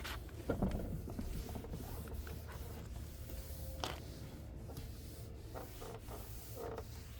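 Polisher pad rubbing on a hazy plastic headlight lens to buff out the oxidation, over a low steady motor hum, with a few short scrapes and knocks.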